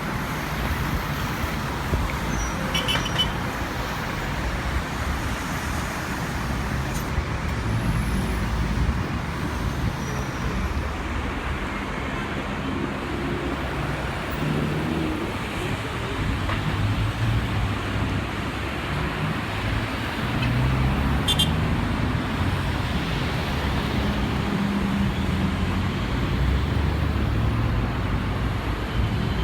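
Steady low rumble and roar of engines with shifting low tones, growing slightly louder about two-thirds of the way through.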